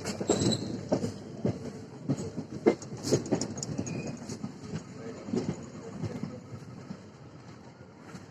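Moving passenger train, its wheels clattering and knocking irregularly over the rail joints above a running rumble, the clatter easing off over the last couple of seconds.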